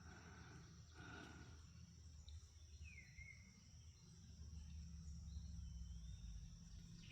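Near silence: faint birds giving a few short falling chirps over a steady high insect drone and a low hum.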